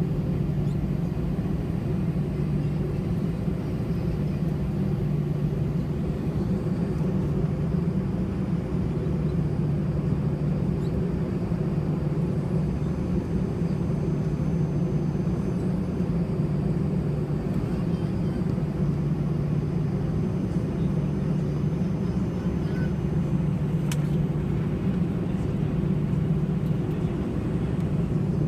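Steady low rumble inside the cabin of an Airbus A320-211 on the ground before takeoff, its engines at idle thrust and cabin air running. A faint click about 24 seconds in.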